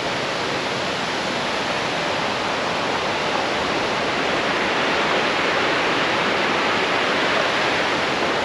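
Waterfall rushing: a steady wash of falling water that swells slightly past the middle.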